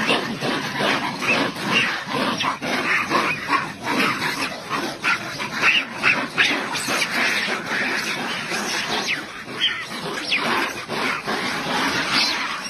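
Several animals calling at once in a dense, continuous, rough mix of short overlapping calls, with a few higher pitched cries standing out; it cuts off suddenly at the end.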